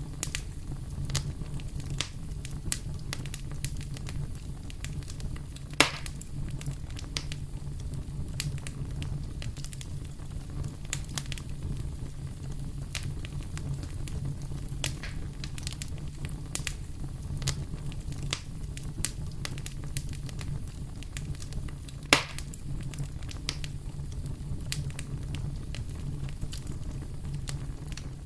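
Wood fire burning in a fireplace: a steady low rumble of flames with irregular crackles and pops, two of them sharp louder snaps about six seconds in and near 22 seconds.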